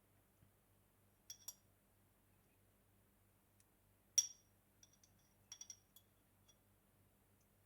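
Light clinks of kitchen ware, a hard utensil or dish knocking against glass or metal, each ringing briefly: a pair about a second in, the loudest about four seconds in, and a quick cluster near six seconds. A faint steady low hum underneath.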